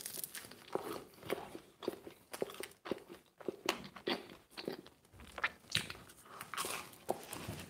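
A person biting and chewing crunchy pizza crust, a steady run of crisp crunches at about two a second.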